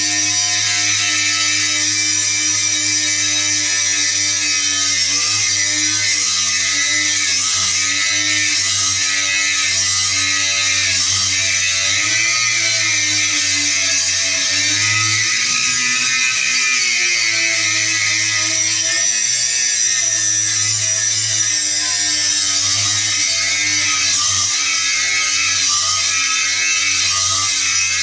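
Angle grinder running continuously on steel. Its motor whine rises and falls in pitch over a steady, loud, high grinding hiss.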